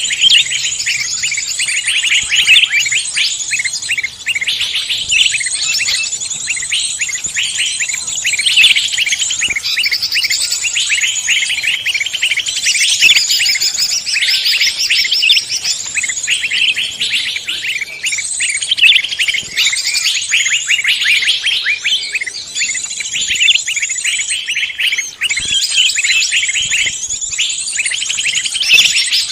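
A dense chorus of many songbirds chirping and trilling at once, fast high-pitched notes overlapping without a break.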